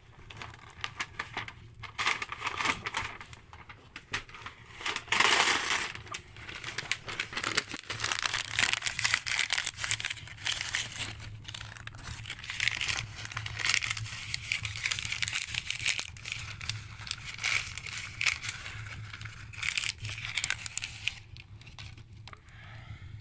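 Birch logs burning in a fireplace, crackling and popping in a dense irregular stream that thins out near the end, over a faint steady low hum.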